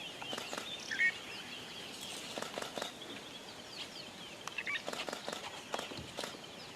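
A flock of small birds chirping and twittering over one another, with a louder call about a second in and scattered short taps or flutters among them.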